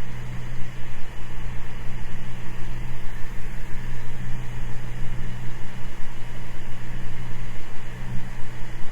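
Cessna 206 Stationair's piston engine and propeller droning steadily in flight, a constant low hum with a hiss over it.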